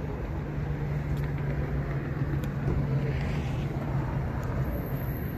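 A car engine running steadily at low revs: a continuous low hum with no change in pitch, and a faint rise in noise about three seconds in.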